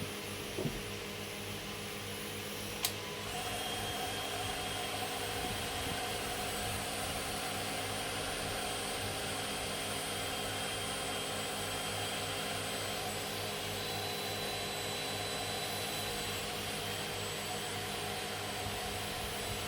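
Electric heat gun running steadily, shrinking heat-shrink tubing over crimped battery-cable terminals. A click about three seconds in, after which a higher tone joins and it runs a little louder.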